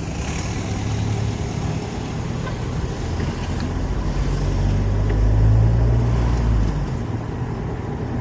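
Car driving along a street: a steady low engine and road rumble that swells in the middle and eases again near the end.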